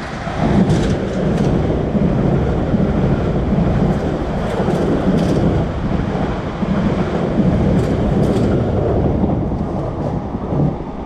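Passenger train passing directly below, a loud steady rumble with pairs of sharp clicks from the wheels running over the track.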